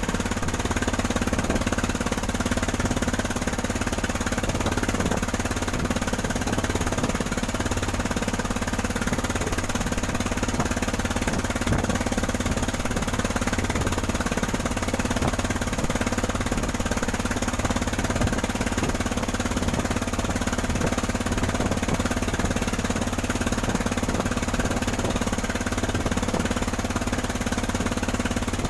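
Cargo boat's engine running steadily under way, a loud unbroken drone with no change in speed.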